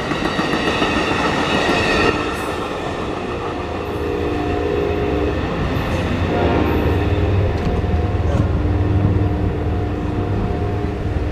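The tail of an Amtrak passenger train rolls through a grade crossing, and its wheel noise falls away about two seconds in. After that the crossing's warning bell keeps ringing in steady, repeating tones.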